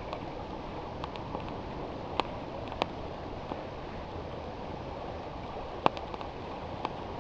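Campfire crackling, with a few sharp pops (the loudest about six seconds in), over the steady rush of flowing river water.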